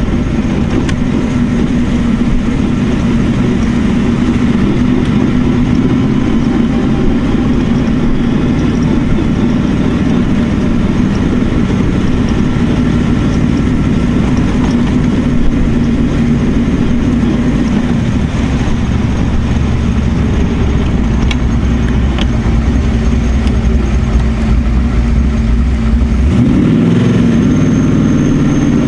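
Backdraft Cobra's Smeding Performance Ford V8 running steadily under way with a deep rumble, rising in pitch near the end as it accelerates. Wind and road noise from the open cockpit run under it.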